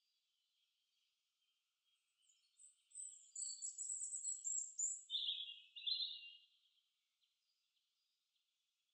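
Birds chirping: a run of quick, high chirps and trills about two and a half seconds in, lasting roughly four seconds, over faint chirping.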